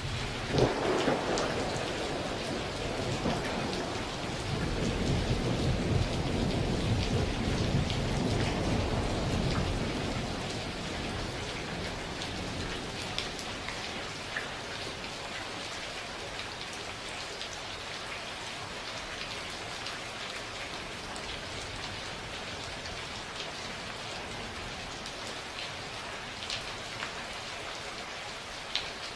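Steady heavy rain with scattered drops pattering on a surface. A thunderclap cracks right at the start and rolls into a deep rumble that swells and then fades out about ten seconds in.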